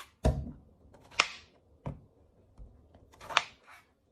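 Knife cutting a luffa on a cutting board: a few separate cuts and knocks about a second apart, some with a short scrape, one with a dull thud on the board.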